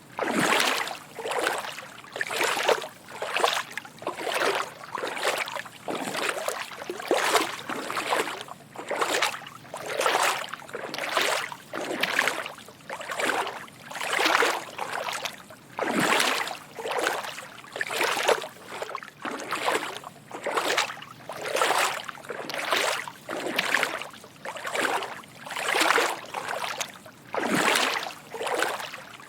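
Footsteps wading through shallow water: a soft slosh with each step, about one a second, in an even walking rhythm.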